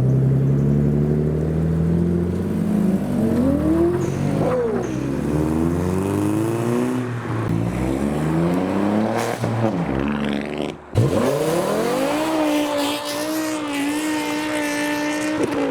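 Modified car engines revving and accelerating as cars drive out of a car meet, the pitch climbing and falling several times. A brief dip in level comes just before 11 s, then a sharp loud rev, after which one engine is held at steady high revs for about three seconds.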